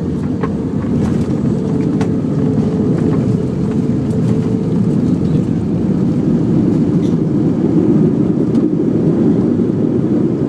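Airbus A320 cabin noise heard from inside the cabin: the engines and airflow make a steady low rumble with a faint steady tone, growing a little louder over the first few seconds and then holding.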